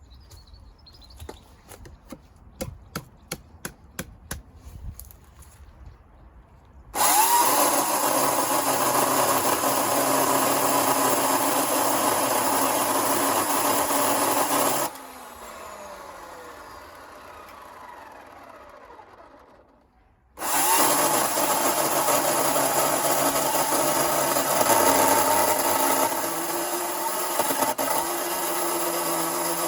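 Chainsaw with a thin Panther Cub bar and 1/4-inch .043 chain ripping lengthwise through walnut. It starts suddenly after a few faint clicks, drops and winds down with a falling pitch about halfway through, stops briefly, then cuts again for the last third.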